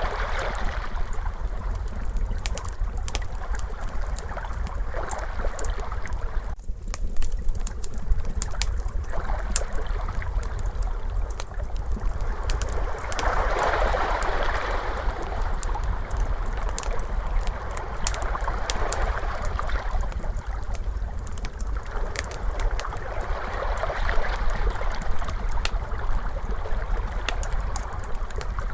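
Wood fire crackling with frequent sharp pops, over ocean waves washing in slow swells every few seconds with a low rumble underneath.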